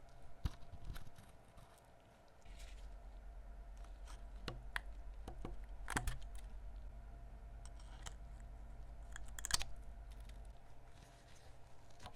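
Scattered sharp clicks, taps and short crunchy scrapes of hand work, over a low steady hum that starts a couple of seconds in and stops shortly before the end.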